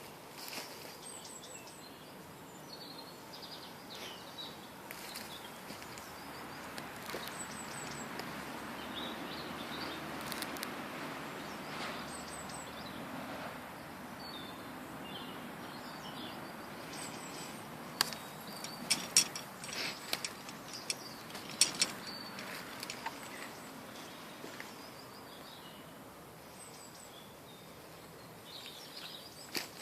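Small songbirds chirping and singing over a steady outdoor hiss, with short high calls scattered throughout, including a repeated little three-note chirp. A cluster of sharp clicks or knocks about two-thirds of the way in is the loudest sound.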